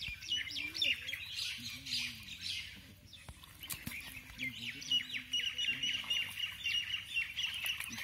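Wild birds chirping and calling in a forest, many short quick notes overlapping; from about four seconds in, one bird gives a fast, even run of repeated chattering notes.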